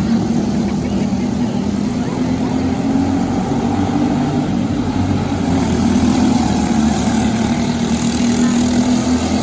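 Racing kart engine, a Briggs & Stratton LO206 single-cylinder four-stroke, running steadily under way, its pitch rising and dipping slightly.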